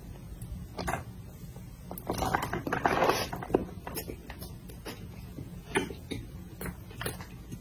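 Close-miked eating of spicy noodles: a long noisy slurp about two seconds in, with scattered wet clicks and smacks of chewing throughout.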